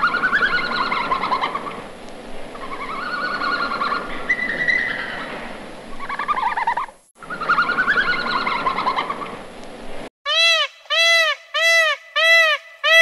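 Animal calls that rise and fall in pitch over a noisy background, breaking off about seven seconds in and starting over with the same calls. Near the end they give way to a clean run of identical rising-and-falling calls, about one and a half a second.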